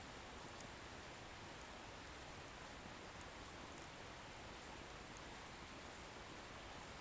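Wood bonfire burning quietly: a faint, steady hiss with a few tiny, faint crackles.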